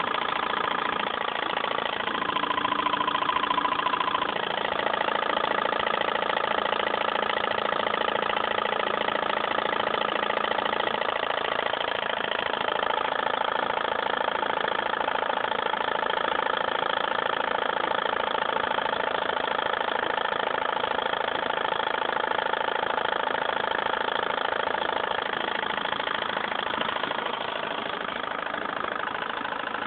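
Small Stirling engine running steadily, a continuous mechanical whir with several steady tones.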